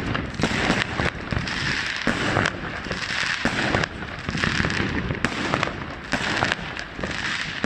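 Dense fireworks barrage: many overlapping bangs and a constant crackling, with no gap between bursts.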